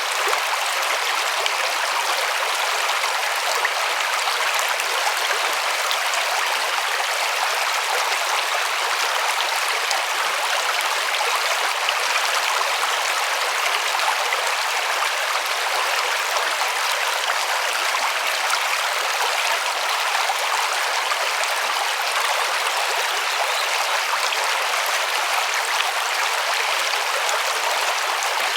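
River water flowing and splashing in a steady rush, even throughout, with little low rumble.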